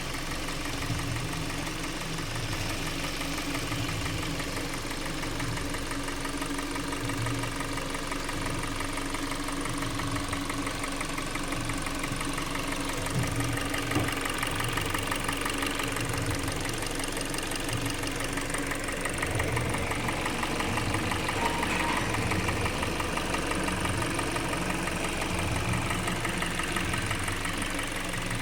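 Hyundai ix35's G4NA 2.0-litre four-cylinder petrol engine running steadily with a rapid knock. The owner suspects scored pistons and cylinders.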